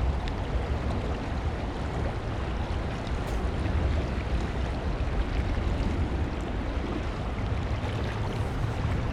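Stream water flowing and rushing steadily, with a low rumble underneath.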